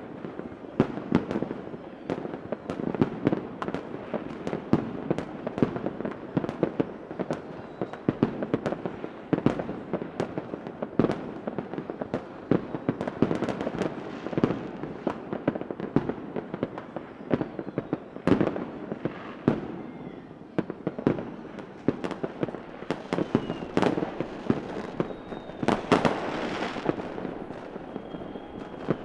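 Fireworks going off in a continuous barrage: dense, irregular bangs and crackling pops, with a few faint whistles and the loudest burst of bangs about 26 seconds in.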